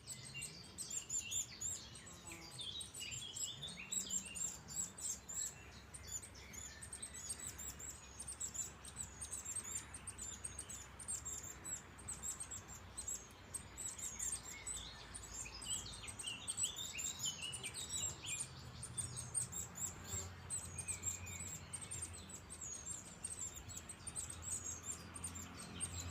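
Small songbirds chirping and twittering in quick, dense runs of short high calls, with a faint low rumble underneath.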